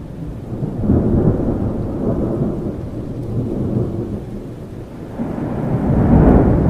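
Thunderstorm: steady rain with rolling thunder, one low rumble swelling about a second in and a louder one building toward the end.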